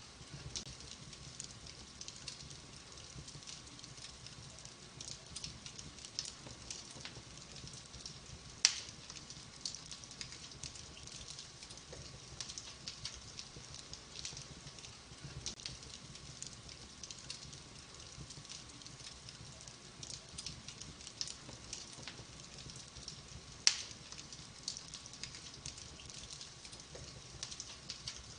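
Fire burning in a fireplace, crackling steadily with many small snaps and two much louder pops, one about a third of the way in and one near the end.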